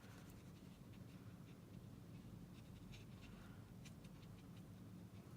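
Near silence: faint light strokes of colouring on cardstock, a few soft ticks and rubs, over a low steady hum.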